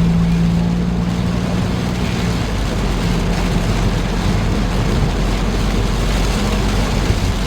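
Road noise inside a moving car: tyres and engine running steadily at highway speed, with a steady low hum that is strongest for the first two seconds or so.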